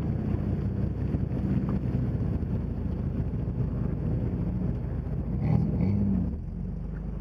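Off-road pickup truck engine running, its pitch rising and falling with the throttle, loudest about five and a half seconds in.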